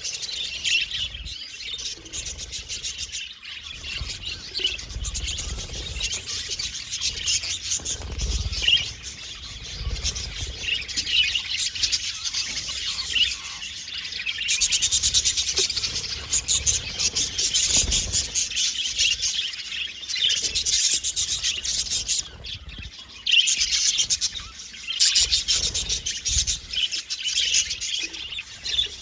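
Budgerigars chirping and warbling in quick, dense chatter that swells and fades in stretches.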